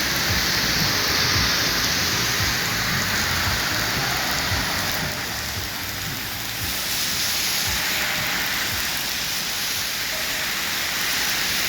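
Heavy rain pouring down on a city street, a dense steady hiss that eases slightly for a couple of seconds midway.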